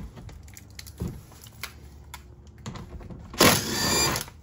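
Scattered clicks and knocks of hand tools on the 10 mm bolts of an under-engine plastic shield. Near the end comes a louder, rattling burst lasting just under a second.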